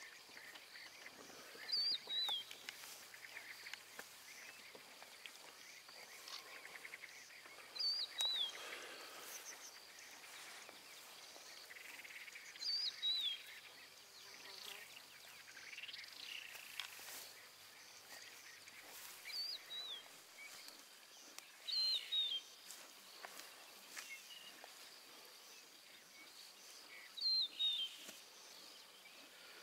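A wild bird repeating a short, high call that falls in pitch, six times at intervals of a few seconds, over a steady background of outdoor ambience.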